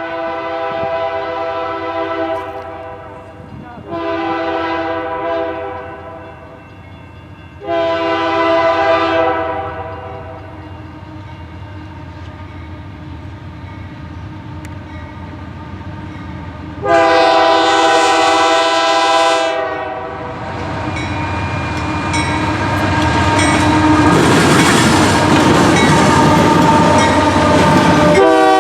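Freight locomotive's multi-chime air horn blowing a series of long blasts, the last one several seconds after the others. Then the diesel locomotives and intermodal cars pass close with a rising rumble and wheel clatter, and the horn sounds again near the end.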